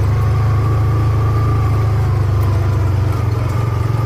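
Vehicle engine running steadily with a loud, even low hum as the vehicle is driven.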